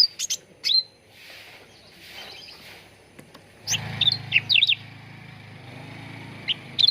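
Cucak ranting calling in quick clusters of sharp, high chirps that sweep up and down: a few at the start, a fast run of notes a little past halfway, and more near the end. A low hum runs under the later calls.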